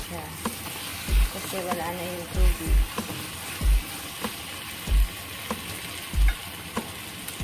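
Chicken wings sizzling in a nonstick frying pan as they are stirred and turned with a wooden spatula, with dull low thumps about once a second.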